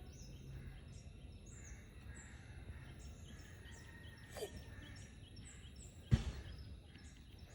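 Outdoor ambience with a bird's high chirps repeating about twice a second over a low rumble, and one sharp knock about six seconds in.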